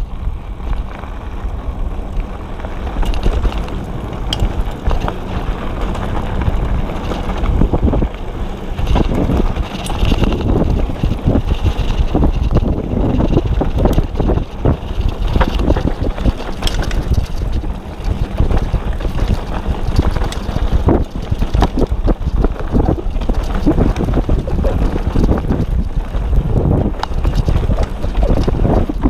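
Hardtail mountain bike riding fast over a dirt trail: a steady rumble of tyres on dirt with constant clattering and rattling from the chain and frame over bumps, and wind buffeting the microphone.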